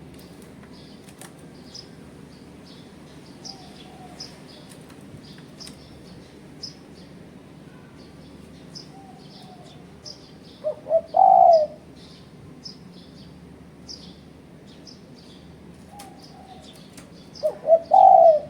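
Spotted dove cooing twice, about ten and seventeen seconds in, each phrase two short notes followed by a longer one; fainter coos come now and then, over constant short high chirps of small birds.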